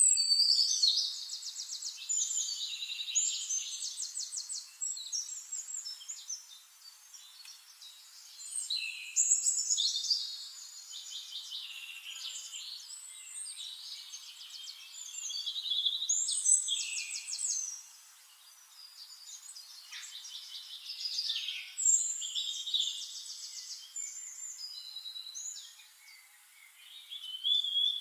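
Birds chirping and trilling in high, rapid bursts that come and go every few seconds.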